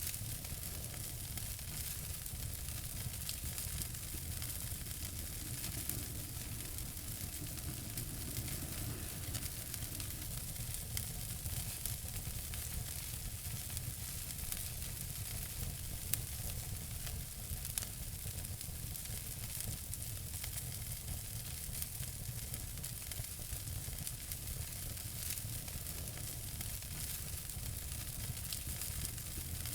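Wood fire burning in a fireplace: a steady hiss of dense small crackles over a low rumble, with an occasional louder pop.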